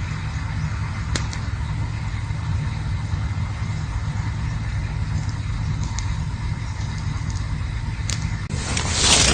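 Campfire burning with a steady low rumble and a few sharp crackles. Near the end a much louder rushing hiss comes in.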